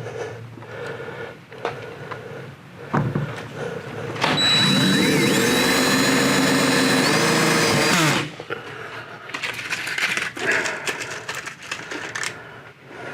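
Cordless drill-driver running for about four seconds, driving a self-tapping screw through a door sweep into a door, its motor whine dropping in pitch as it stops. Brief knocks and handling noise before and after.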